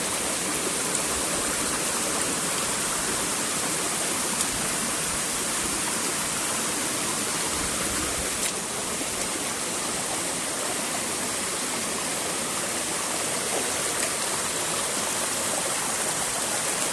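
Steady rush of a waterfall and the mountain stream below it running over rocks, with one brief click about halfway through.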